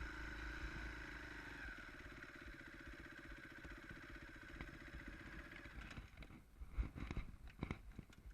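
Enduro motorcycle engine running at a steady speed and growing fainter, then stopping about six seconds in, followed by scattered clicks and knocks.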